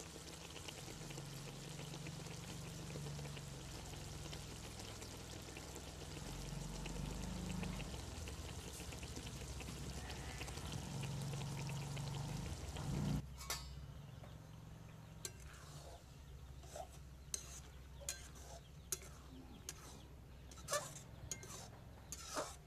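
Food sizzling in a pan as a steady hiss with a low hum under it, which cuts off abruptly about thirteen seconds in. It gives way to quieter sound with scattered sharp clicks and clinks.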